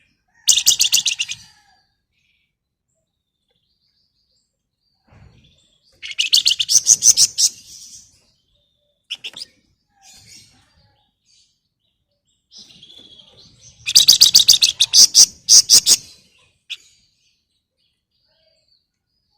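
A flamboyan songbird singing in loud bursts of rapid, closely repeated chattering notes: three bouts, the first right at the start, one at about six seconds and one at about fourteen seconds, with a few single chips between them. This is the fast 'ngebren' chatter prized by bird keepers.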